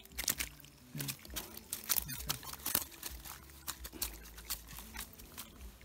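Irregular patter of small clicks and rustles as a mesh bag of freshly caught fish is handled and shifted on a muddy riverbank.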